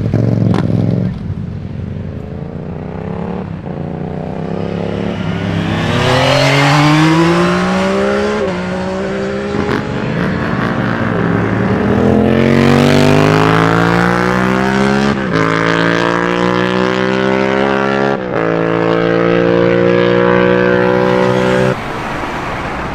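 Superbike engine accelerating hard through the gears: its pitch climbs and drops at each of three upshifts, then holds briefly before the throttle is shut near the end.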